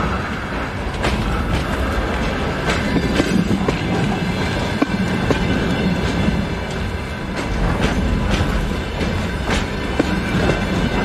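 Container flatcars of a freight train rolling past, wheels rumbling on the rails with sharp clacks every second or so as they cross rail joints.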